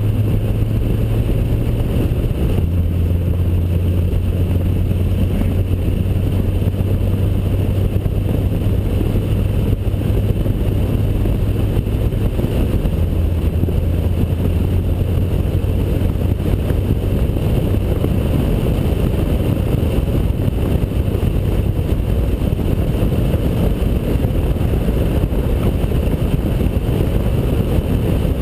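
Honda Accord Type S with a K24 2.4-litre four-cylinder and a custom duplex exhaust, driven at speed on track: a steady engine drone mixed with wind and road noise, heard from a camera mounted outside the driver's window. The engine note shifts slightly twice.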